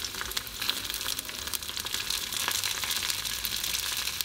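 Sliced mushrooms and halved cherry tomatoes sizzling in olive oil in a stainless steel frying pan: a steady crackle with many small pops.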